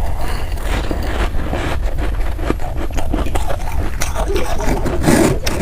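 A person biting and chewing ice: a run of crisp crunches and crackles, close to the microphone, over a steady low hum.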